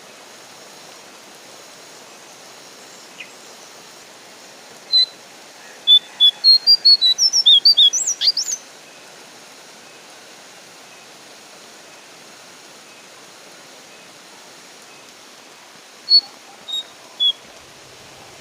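Recorded call of a brown jongkangan: a single high note, then a quick run of about a dozen sharp, sliding high notes lasting a couple of seconds, and three more notes near the end. A steady hiss of rain runs underneath.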